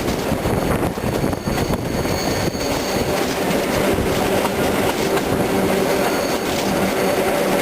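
The Petit Train Jaune, a narrow-gauge electric train, running along the track with steady wheel and rail noise. A thin, high wheel squeal comes in twice, once for about two seconds and again for about a second near the end.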